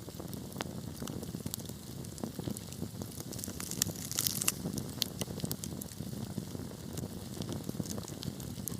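Wood fire burning steadily in a fireplace, with a low rumble of flames and frequent irregular crackles and pops, a brief flurry of them near the middle.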